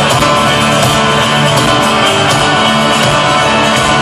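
Live folk-rock band playing loudly between sung lines: strummed acoustic guitar over a steady beat.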